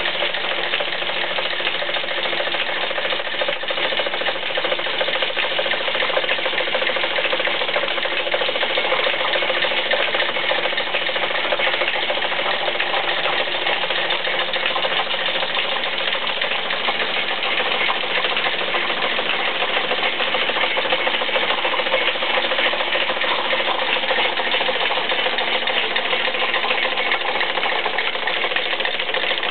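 W.F. & J. Barnes flat-belt camelback drill press running under power from an electric motor through leather flat belts and pulleys: a steady whir with a fast, even clatter.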